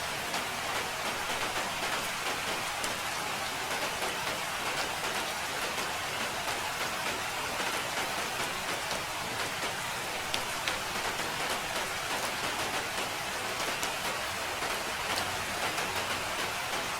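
Steady rain falling and pattering on a surface, a constant even hiss with many small drop ticks.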